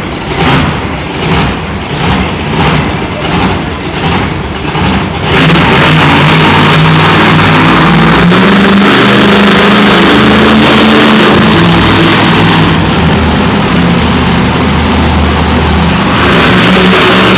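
Monster truck engine revving in rapid throttle blips, about one and a half a second, then held at full throttle from about five seconds in, loud and steady.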